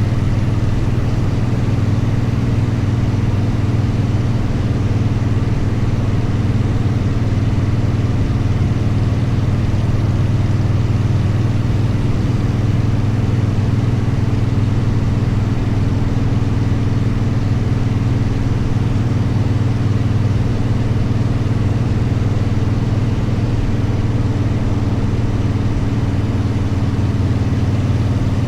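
Motorcycle engine running steadily, holding one pitch with no revving.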